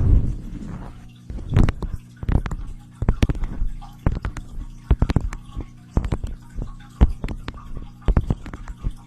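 Irregular close-up taps and clicks, several a second, over a steady low electrical hum, typical of ASMR tapping on a microphone.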